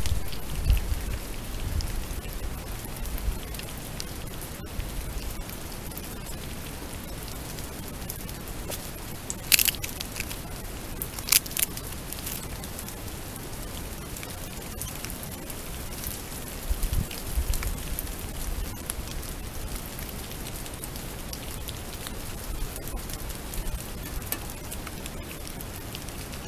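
Heavy rain falling in a steady hiss, with a few sharp clicks about ten seconds in and low thumps near the start and again past the middle.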